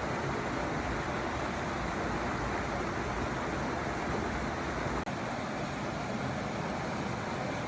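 Stream water rushing and splashing steadily, with a momentary dropout about five seconds in.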